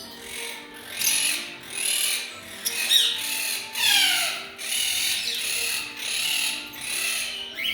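Many caged pet birds calling loudly: harsh screeching calls repeat about once a second, with a downward-sliding whistle about four seconds in.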